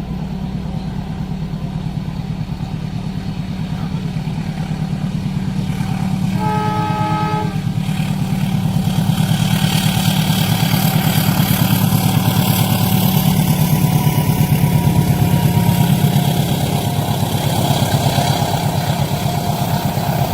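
A train approaching and passing over a level crossing. A low, steady engine rumble throbs throughout, a single horn blast of about a second and a half comes about six seconds in, and then the rushing noise of wheels on rail builds, loudest a few seconds before the end.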